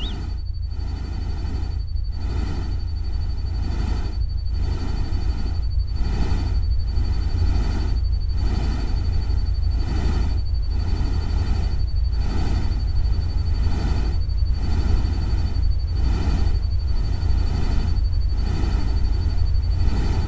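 Electronically generated nature-sound ambience: a steady deep rumble under a noise hiss that swells and fades a little more than once a second, with a thin steady high tone above it. A short chirp comes right at the start.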